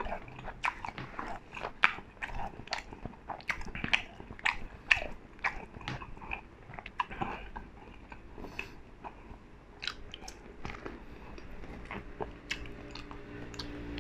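A person chewing a mouthful of fried chicken, with many short, sharp, irregular crackles that come thick at first and thin out after about halfway.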